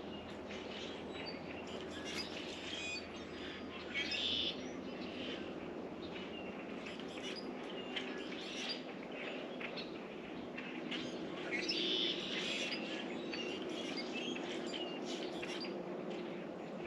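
Small songbirds chirping and calling in short, repeated notes, with louder bursts of calls about four seconds in and again around twelve seconds.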